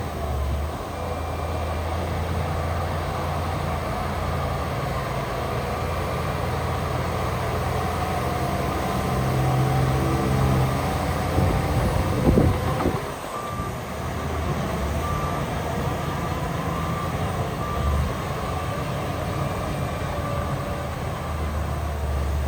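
Heavy diesel earthmoving machinery, dump truck and bulldozer engines, running steadily while a reversing alarm beeps at intervals. A short louder burst comes a little past halfway.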